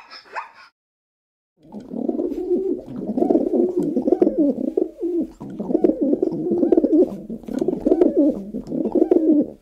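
A flock of domestic pigeons cooing, many birds' low coos overlapping into a continuous murmur that begins about two seconds in. A brief sound comes just before it at the very start.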